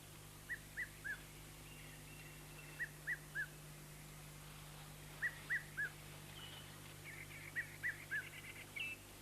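A bird calling: a quiet phrase of three short whistled notes, repeated four times about every two and a half seconds, with faint trilling behind it.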